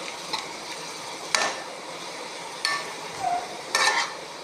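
A spoon stirring and scraping through onions and tomatoes frying in a pan, with a steady sizzle underneath and about four sharp knocks of the spoon against the pan.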